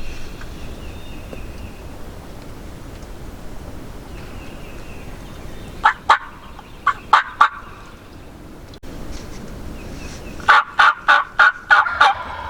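Wild turkey gobbler gobbling twice: a short broken gobble about six seconds in, then a longer, fuller rattling gobble near the end.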